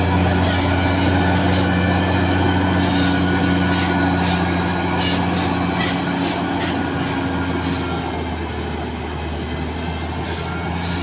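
Large diesel truck engine running steadily with a low, even drone and clatter. It eases off a little about two-thirds of the way through.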